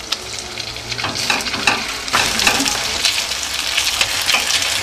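A bread-crumb, egg and milk mixture sizzling in hot butter and olive oil in a stainless steel pot, with a wooden spatula scraping and turning it. The frying gets louder about two seconds in.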